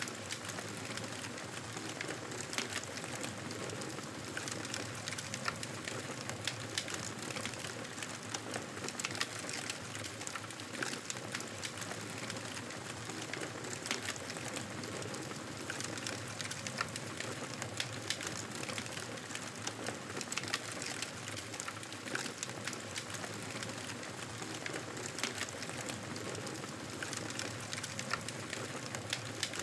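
Campfire burning: a steady hiss with frequent small, irregular crackles and pops from the burning wood.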